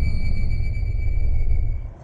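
Background music: a held, high synth-like tone over a dense low droning rumble, cutting off suddenly near the end.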